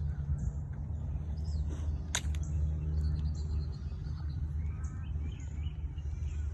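Outdoor ambience: a steady low rumble with faint bird chirps, and one sharp click about two seconds in.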